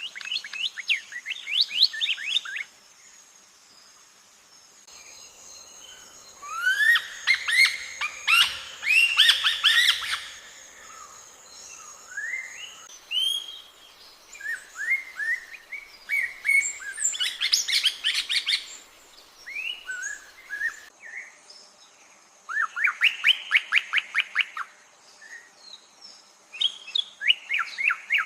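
Birds singing: phrases of rapid, quick-repeating chirps, each lasting about two seconds, with scattered single chirps in between. The background changes abruptly twice, about five seconds in and again after twenty seconds.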